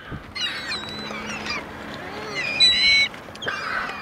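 A flock of gulls crying for food, many high calls overlapping, with one louder call a little before the end.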